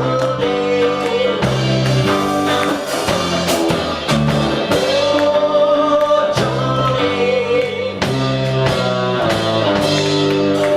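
Live rock band playing with a singing vocal over electric guitar, bass and drum kit, the singer holding long wavering notes over a steady beat.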